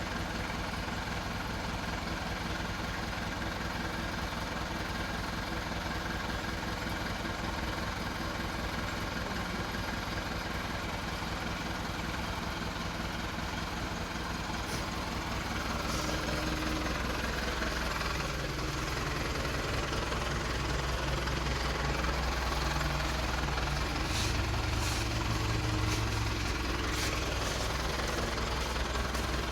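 A loaded truck's engine runs with a steady low throb. From about halfway through it grows louder and works harder, the truck labouring while stuck in soft ground.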